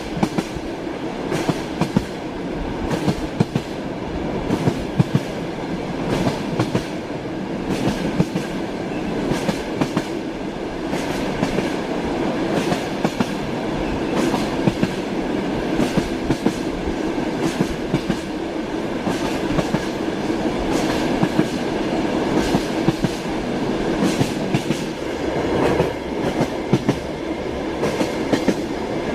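A moving train's wheels clacking over rail joints: a steady rumble and hiss with frequent sharp knocks.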